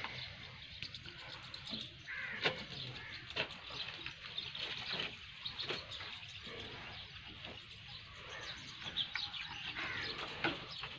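Small birds chirping repeatedly in quick, short calls, with scattered sharp clicks.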